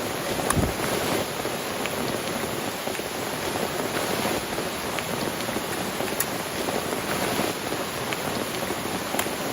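Steady heavy rain falling, with scattered louder taps of single drops.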